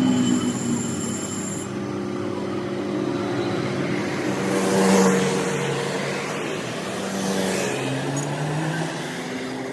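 An engine running steadily, its pitch drifting up and down a little, with a louder swell about halfway through.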